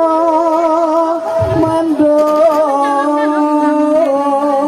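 A solo voice singing a Javanese sacred tembang in long held notes with a wide vibrato, sliding between pitches. A brief low accompanying note sounds about a second and a half in.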